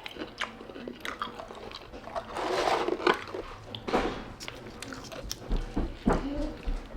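A person chewing and biting into fried food close to the microphone, with irregular crunchy, crackling mouth sounds.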